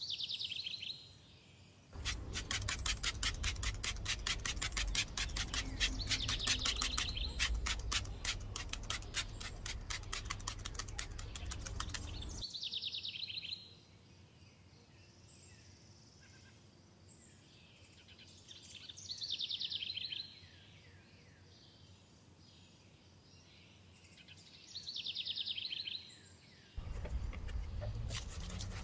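A songbird calling again and again outdoors, a short falling trill every few seconds. For about ten seconds near the start, a louder steady hiss with a fast, even ticking covers the calls, and the hiss comes back near the end.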